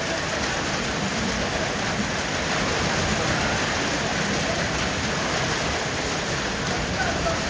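Heavy rain from a summer thunderstorm, falling steadily and evenly.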